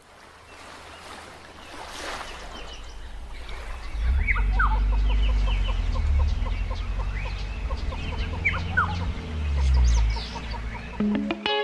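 Birds calling, with a few short falling calls and many small chirps, over a steady low rumble that comes in about four seconds in.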